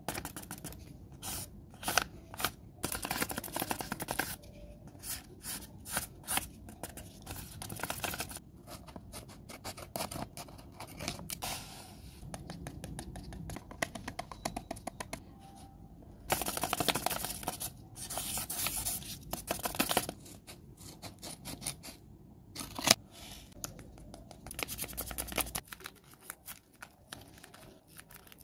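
Scissors snipping through paper, with paper rustling and crinkling as it is handled, in a long string of short crisp snips and rustles.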